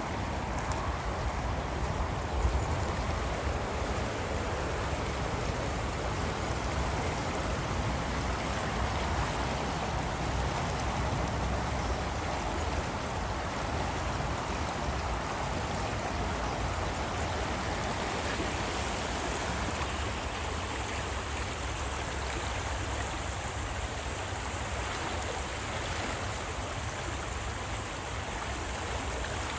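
Flooding creek rushing: a steady, unbroken noise of fast-moving high water, with a deep rumble beneath it that eases somewhat in the last third.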